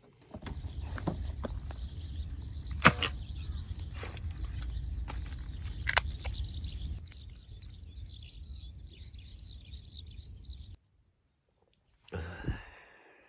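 Outdoor ambience: a steady low rumble with a bird singing in warbling phrases and a few sharp knocks. It cuts off abruptly near the end.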